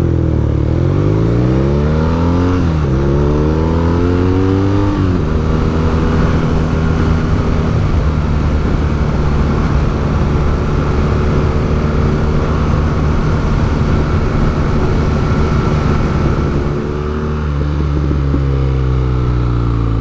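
BMW R nineT's 1200cc air/oil-cooled boxer twin through its factory Akrapovic exhaust, accelerating with rising pitch through two upshifts in the first five seconds, then cruising at a steady pitch. Near the end the throttle closes and the pitch falls, then holds lower.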